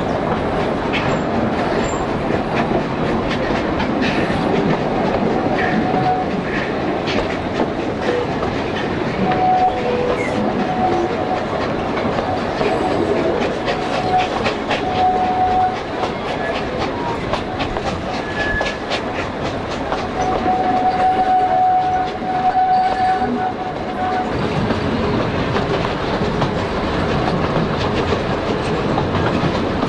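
Narrow-gauge steam-hauled passenger train running, heard from an open carriage window: a steady rumble and clickety-clack of the wheels over the rail joints. Short squealing tones come and go, mostly about a third of the way in and again about two-thirds in, as the wheels take the curve.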